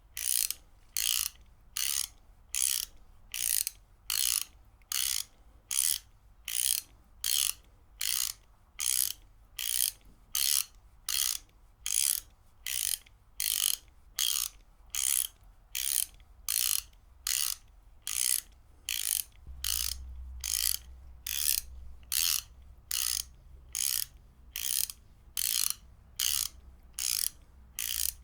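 Ratchet wrench ratcheting in short, evenly spaced bursts of clicking, about three every two seconds.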